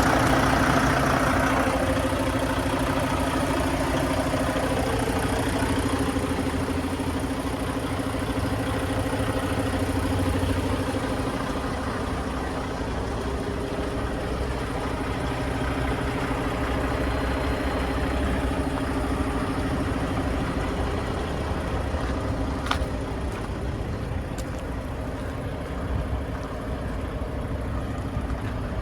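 Diesel engine of a 2023 Mack Granite daycab truck idling steadily, a little louder in the first couple of seconds. A single sharp click sounds about two-thirds of the way through.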